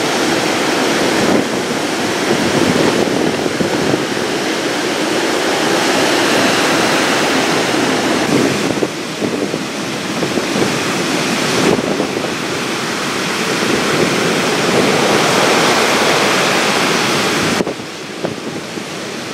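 Hurricane wind and surf, with wind blasting across the microphone. The sound changes abruptly every few seconds, about five times, as one stretch of storm noise gives way to another.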